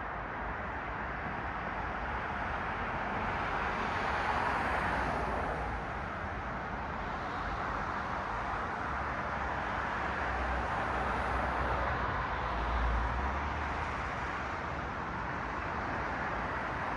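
Cars passing on a city street: steady traffic noise of tyres and engines that swells as vehicles go by, loudest about four seconds in and again later on, with a low rumble near the end.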